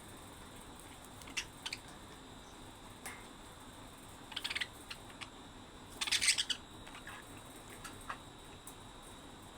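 Budgerigars chirping in short, scattered calls, the loudest a quick run of chirps about six seconds in.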